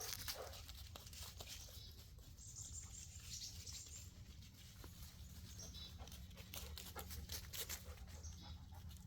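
Faint high calls of small woodland birds, chickadees among them, over soft rustling and scattered light clicks in dead leaves.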